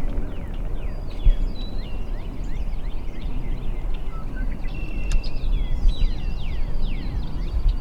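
Many songbirds chirping and singing in short, quick, falling whistled notes over a steady low rumble.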